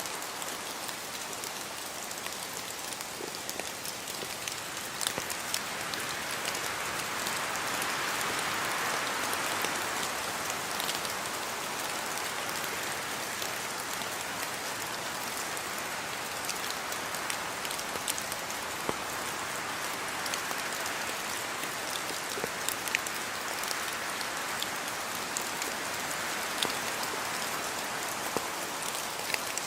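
Steady rain falling on a surface, an even hiss dotted with individual drop ticks, briefly heavier about a third of the way in and again near the end.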